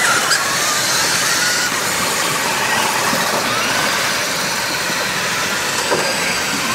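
Radio-controlled rock crawler trucks driving, their electric motors and gears whining with a pitch that rises and falls as the throttle changes, over a steady rushing background.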